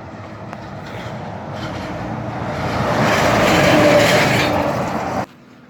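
A 2015 Freightliner Cascadia semi-truck driving past, its tyre and engine noise swelling to a peak about three to four seconds in, then cutting off abruptly.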